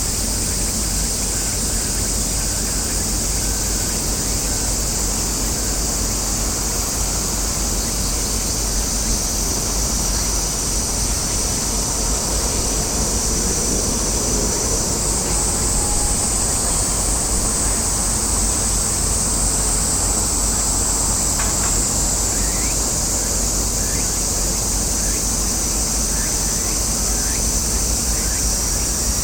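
Steady, high-pitched chorus of cicadas over a low, even rumble, with a few faint short chirps in the last part.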